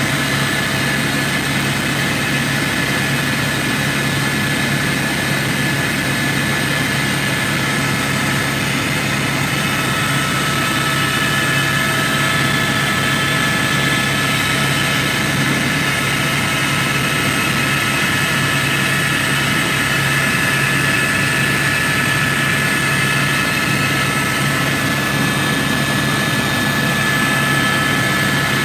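Helicopter in flight, heard from aboard: a steady, loud drone of turbine engine and rotor, with a constant high whine over it.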